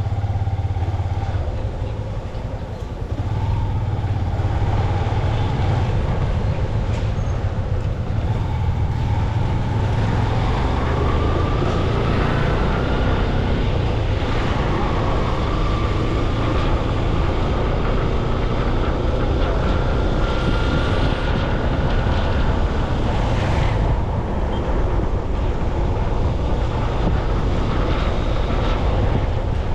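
Motorcycle engine running under way through city traffic, with steady wind noise on the microphone. A faint whine slowly rises in pitch a couple of times as the bike picks up speed.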